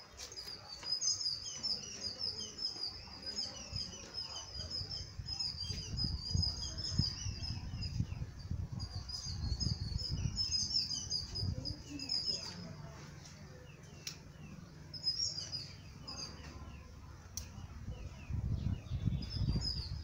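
Birds chirping in rapid high-pitched twittering runs, dense for the first dozen seconds, then in short bouts a few seconds later and near the end, over a low steady rumble.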